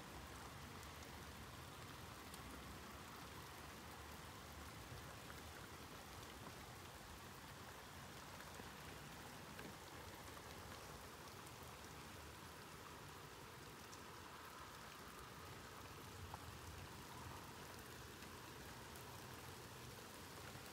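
Faint, steady rain falling outdoors, a constant hiss of drops with tiny scattered clicks and no thunder.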